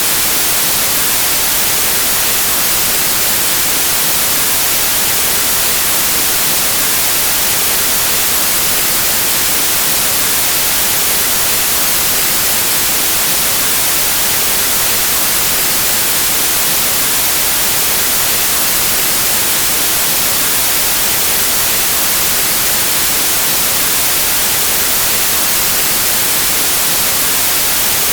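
Steady, unchanging white noise: an even static hiss.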